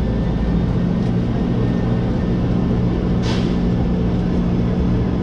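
Steady running noise of a passenger train heard from inside the carriage: a low hum with a constant engine-like tone, and a short hiss about three seconds in.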